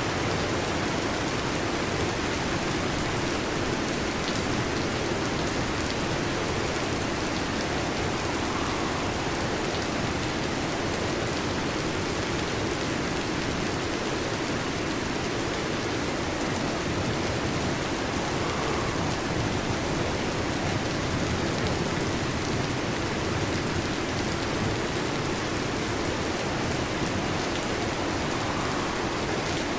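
Heavy rain drumming steadily on a metal roof: a dense, even hiss of drops with no thunder.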